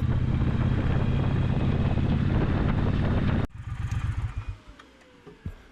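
Motorcycle engine running steadily under way, the Triumph Bonneville Speedmaster 1200 sidecar rig's twin, with road and wind noise. It cuts off abruptly about three and a half seconds in, leaving a brief low rumble and then quiet.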